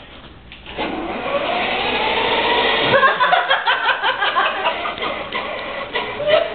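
Small electric motor of a toy car whirring, its pitch rising over the first couple of seconds, then giving way to a rapid choppy clatter of short tones and clicks.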